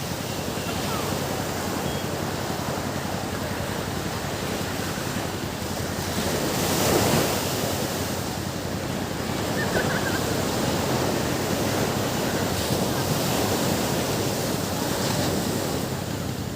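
Ocean waves breaking and washing on a beach, in a steady surf noise with one wave surging loudest about seven seconds in. Some wind buffeting on the microphone.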